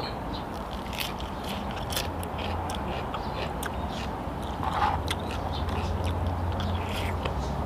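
Close-up eating sounds: a person chewing crisp lettuce and blood cockles, with scattered crunches and small clicks, over a steady low hum.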